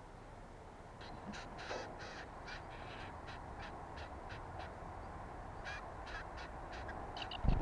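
A bird giving short, harsh calls, about three a second, in two runs with a pause in between. A low thump near the end is the loudest moment.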